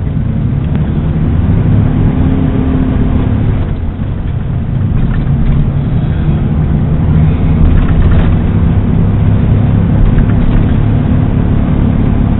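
Truck engine and road noise heard from inside the cab while driving, a steady low hum that dips briefly about four seconds in and then builds again.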